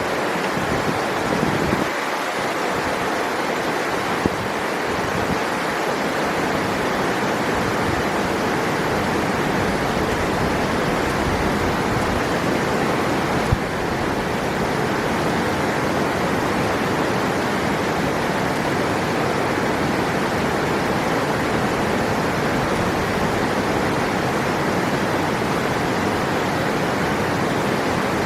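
River water rushing steadily over rocks, a constant full rush with no breaks. Two faint brief clicks, one about four seconds in and one about halfway through.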